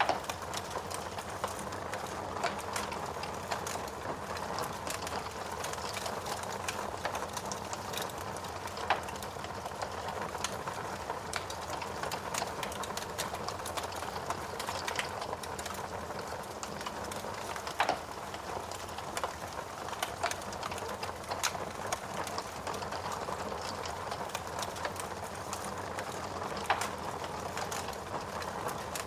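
Steady rain with a wood fire crackling, its small sharp pops and snaps coming irregularly throughout.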